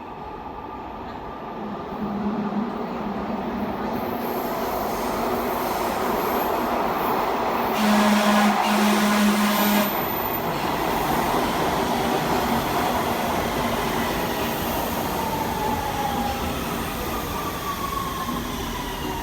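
Passenger train pulling into the station, its running noise swelling as it arrives, with a louder stretch of about two seconds midway and thin wheel squeals near the end as it slows.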